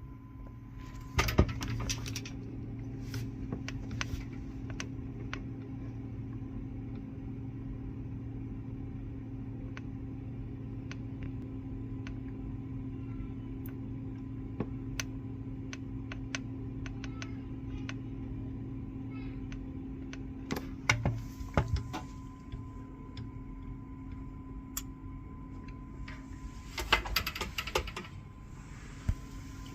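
Steady machine hum with a low drone and a faint high tone, broken by short bursts of metallic clatter and clicks about a second in, about two-thirds of the way through, and near the end.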